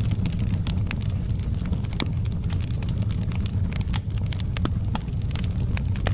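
Wood fire crackling in a fireplace: frequent sharp pops and snaps of uneven loudness over a steady low rumble of burning.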